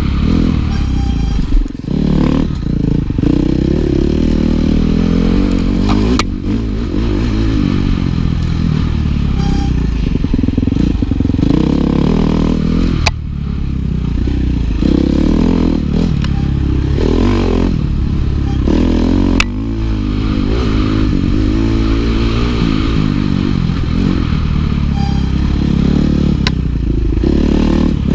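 Dirt bike engine running hard under a rider, its pitch rising and falling with the throttle, briefly dropping off a few times, with several sharp clicks or knocks over it.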